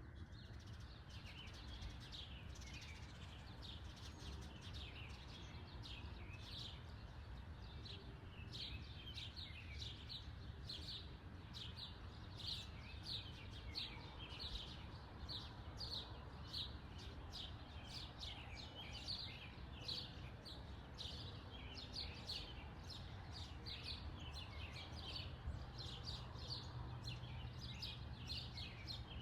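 Small birds chirping over and over, short high chirps more than once a second, over a steady low background rumble.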